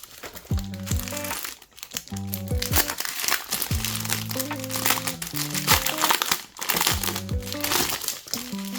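Packaging crinkling and rustling steadily as diamond painting kits are unboxed by hand, over background music.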